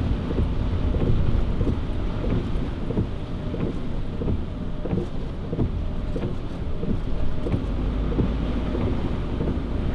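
Car driving along a wet, water-covered road, heard from inside the cabin: a steady low rumble of engine and tyres on the wet surface.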